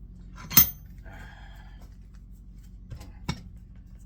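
Metal clanks from parts and tools handled at a vise: one sharp, ringing clank about half a second in, then two lighter knocks near the end.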